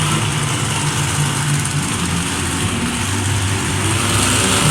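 Monster truck engine running loudly and steadily at a low pitch, with a thick noisy roar around it.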